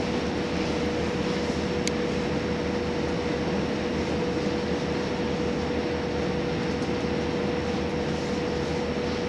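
Running noise inside a JR Hokkaido H100 diesel-electric railcar travelling at a steady pace: a continuous rumble with a steady mid-pitched tone over it, and one sharp click about two seconds in.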